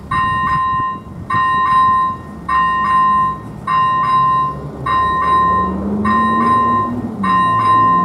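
First-generation electronic bell of an AŽD 97 level-crossing warning signal ringing while the crossing is active. Each cycle is two quick strikes and a held tone, repeating about every 1.2 seconds. A low hum rises in the second half.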